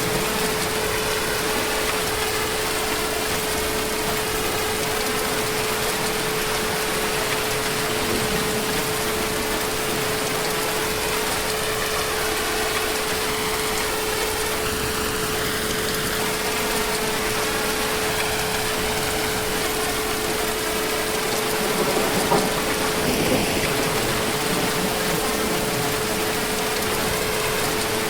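Heavy rain falling steadily, with a steady low hum running underneath.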